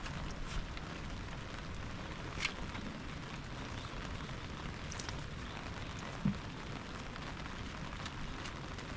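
Steady rain falling, with a few scattered sharp ticks and a dull knock about six seconds in.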